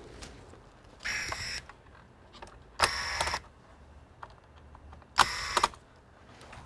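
A small electric motor whirring in three short bursts, each about half a second long, with pauses of a second or two between them.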